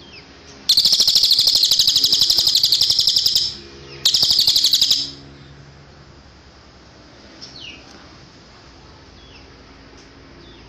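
Cililin song: two loud, very rapid high trills, the first about three seconds long and the second about one second, followed by a few faint short falling chirps.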